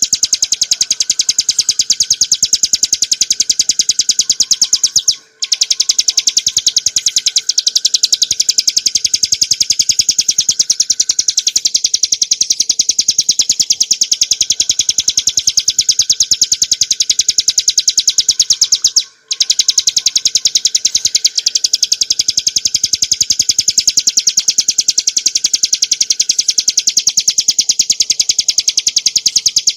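Ciblek gunung, a small prinia, singing a rapid, unbroken high-pitched trill of quickly repeated notes: the fast continuous 'ngebren' song. It stops briefly twice.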